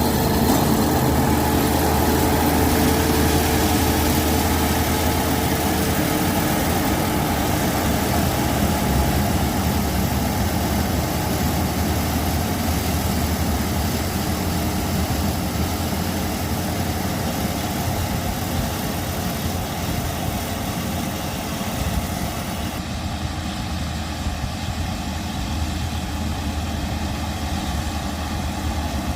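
Engine of a rice combine harvester running steadily with a low hum, slowly fading, and losing some of its hiss late on.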